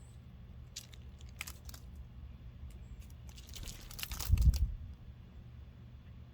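Crunching and cracking of seed at a log bird feeder, a few scattered sharp cracks and then a dense burst of crunching, with a loud low thump about four seconds in.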